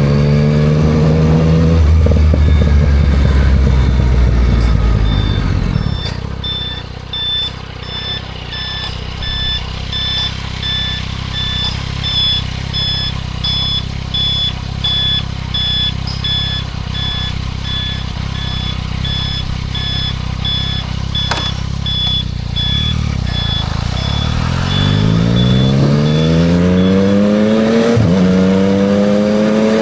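Yamaha MT-09 SP's inline-triple engine through a Spark aftermarket exhaust, slowing down with falling revs and a low rumble, then idling while an electronic beep repeats steadily. Near the end it accelerates away with rising revs and shifts up once.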